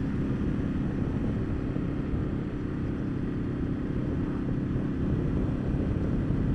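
Ducati Multistrada 1200's V-twin engine running at a steady cruise, under a constant rush of wind noise.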